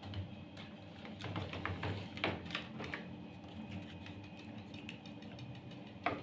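Irregular small plastic clicks and knocks from handling the washing machine's control panel as its wiring connectors are pulled off.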